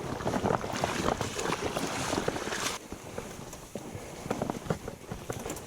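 A kayak being hauled over a river log jam: a rush of splashing water for about three seconds, then quieter, with scattered knocks.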